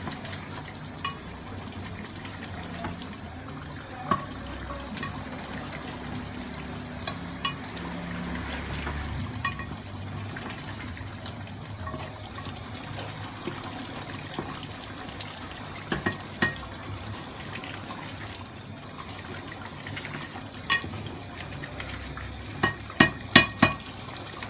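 Chicken karahi gravy frying in a metal pot while a spoon stirs it. Sharp clicks of the spoon against the pot come now and then, with a quick run of them near the end.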